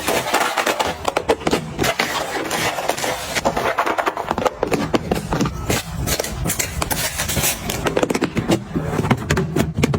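Dense, irregular clatter of small objects being handled: many quick clicks and knocks as items are picked up and set down, with scraping between them.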